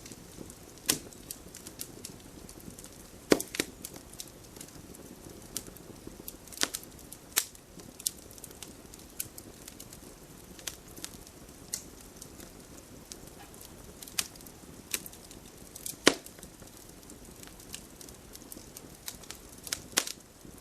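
Wood campfire crackling: irregular sharp pops and snaps over a low steady hiss, with a few louder cracks scattered through.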